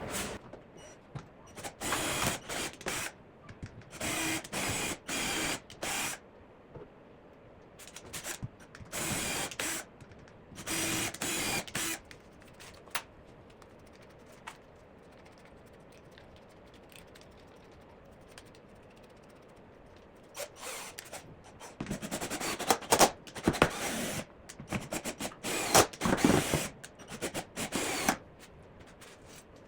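Power drill driving screws into wood in short runs of a second or two, each with a steady motor whine, several spaced apart and then a quicker series of runs near the end.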